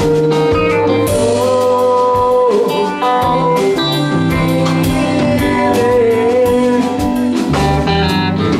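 Live rock band playing an instrumental passage between sung lines: a sustained, gently wavering lead melody over bass guitar, keyboards and drums.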